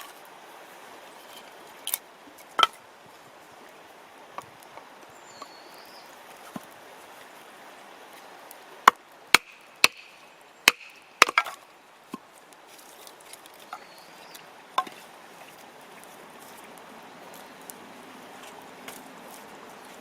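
Sharp, irregular cracks and knocks of firewood, about a dozen, bunched together around the middle, over a faint steady background.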